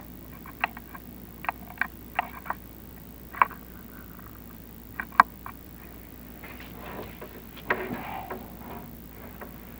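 Irregular sharp clicks and knocks, the loudest about five seconds in, then a stretch of scraping around seven to eight seconds in: a chimney inspection camera and its cable knocking and rubbing against the flue as it is lowered.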